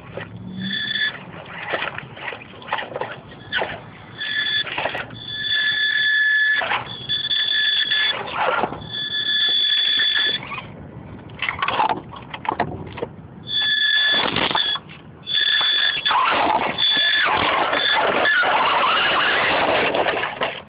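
The 1380kv outrunner brushless motor of an RC crawler whines at a high, steady pitch in on-and-off stretches as the throttle is worked. Scrabbling, clattering noise from the truck moving over rough ground runs under it. The sound cuts off abruptly at the end.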